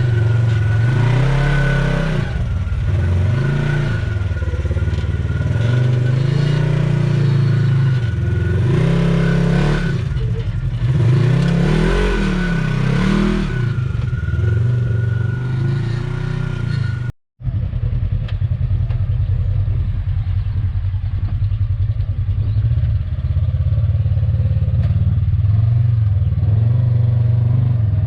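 Off-road side-by-side UTV engine revving up and down over and over, with pitch rising and falling. About seventeen seconds in the sound cuts out for a moment, and after that an engine runs more steadily.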